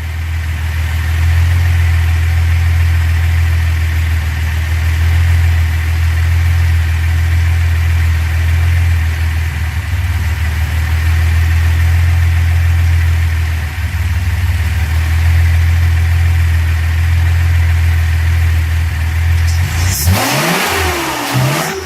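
Datsun 240Z's freshly rebuilt 2.4-litre inline-six idling steadily during tuning of its twin SU carburettors, which the tuner judges still slightly lean. Near the end the sound changes abruptly to a louder, rushing noise whose pitch rises and falls.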